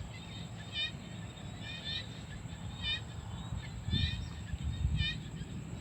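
Evening rice-paddy chorus: a short, high call repeats about once a second over a steady high insect drone. Wind or handling rumble sits underneath, loudest around four to five seconds in.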